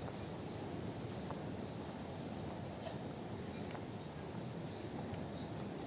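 Steady outdoor background ambience with faint, short high chirps and a few light clicks scattered through it.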